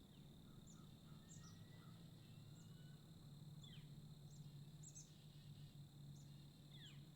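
Faint birdsong: scattered short, high chirps and a few quick falling calls, over a steady low hum.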